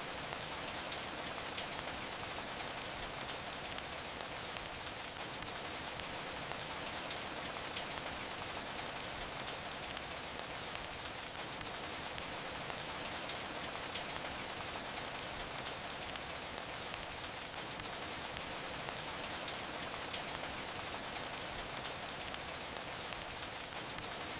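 Steady rain falling, an even hiss, with scattered sharp crackles and pops from a wood fire; a few louder pops come about every six seconds.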